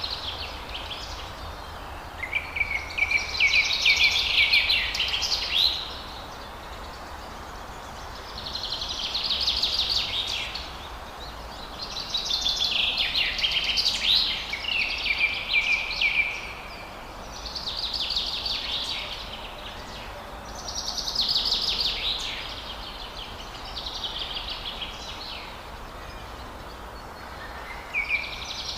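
Bird song: a series of song phrases, each a rapid run of high notes lasting a few seconds, repeated after short pauses over a steady background hiss.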